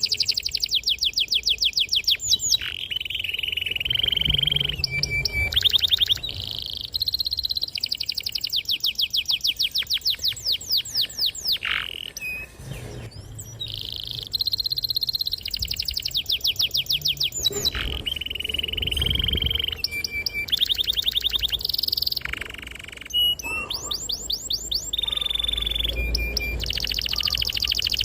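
Domestic canary singing a long continuous song: fast rolling trills of rapidly repeated notes alternate with held whistled tones. There are short breaks about twelve and twenty-two seconds in.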